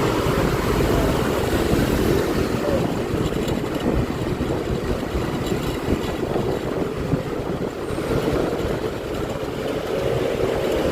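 Honda Click 125i scooter's single-cylinder engine running while riding, with a wavering engine note and rumbling wind on the microphone.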